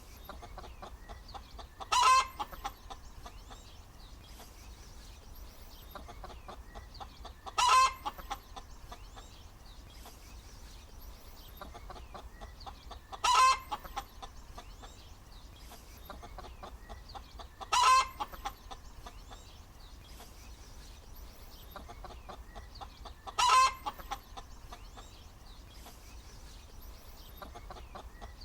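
Domestic hen cackling: runs of soft, rapid clucks, each capped by a short, loud squawk, five times about every five to six seconds.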